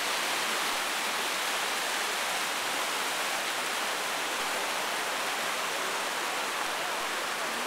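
Steady rushing roar of a tall waterfall, Taughannock Falls, its water plunging into the gorge.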